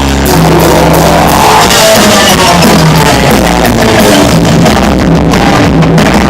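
Loud live rock band playing: electric guitar and drum kit.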